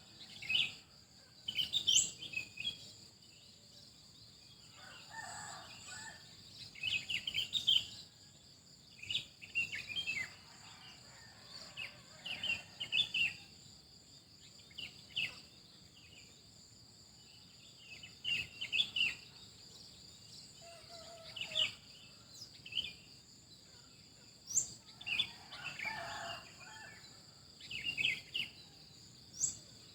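Several small birds chirping in short, scattered bursts of high notes, with now and then a quick rising whistle and a couple of lower calls. Under them runs a steady high insect trill.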